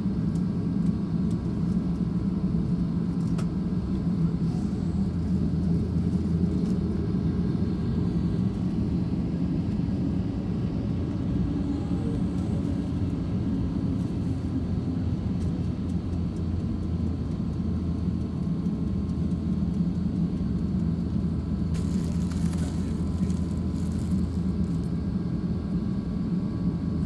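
Steady low engine rumble with faint constant high tones running over it, and a few soft clicks a little past the middle.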